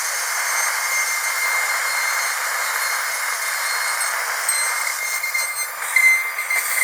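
High-speed dental drill whining steadily: a thin, high-pitched whistle over a hiss, swelling briefly louder about six seconds in.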